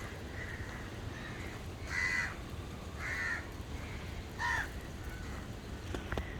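A bird calling: three loud, harsh calls spaced about a second apart, with fainter calls in between, over a steady low outdoor rumble.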